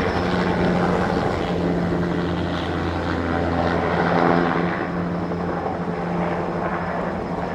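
Fertilizer-spreading helicopter flying close by, its rotor and engine running steadily, a little quieter in the second half.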